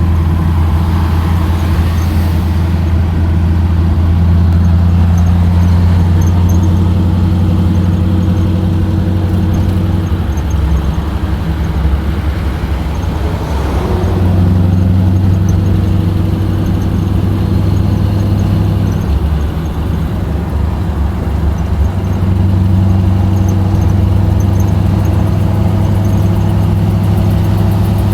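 Jeep engine running steadily under load while towing a truck, a low drone that eases off about ten seconds in and picks up again a few seconds later.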